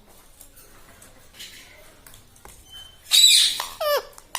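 Indian ringneck parakeet giving one harsh squawk about three seconds in, after a quiet stretch with only faint clicks.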